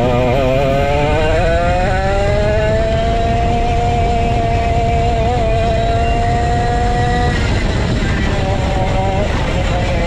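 Vintage go-kart's 135cc Sudam engine accelerating: its pitch climbs over a couple of seconds, holds steady at high revs for about four seconds, then drops off abruptly as the throttle is lifted, with a steady low rush of noise underneath.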